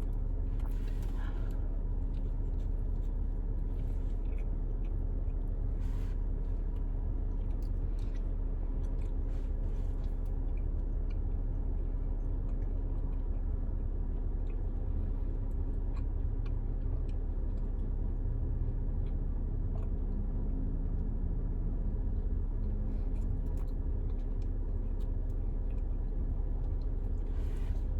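Someone eating and chewing food, with scattered faint mouth clicks, over a steady low hum inside a car's cabin.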